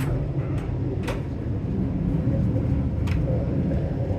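Sleeper train carriage rumbling steadily as the train runs, with a few sharp clicks over the top.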